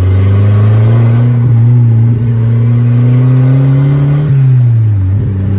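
Turbocharged 1.6 engine of a Corsa pickup accelerating under load, its pitch climbing steadily for about four seconds, then falling as the throttle is lifted, when the turbo flutters (compressor surge chatter with no blow-off valve venting).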